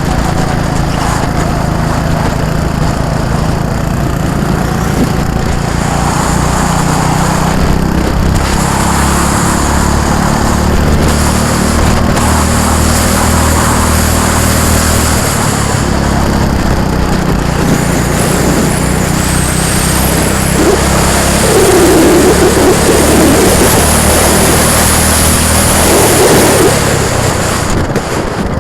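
Several go-kart engines running as karts lap the track, overlapping and rising and falling in pitch as they pass. It is loudest about three quarters of the way through.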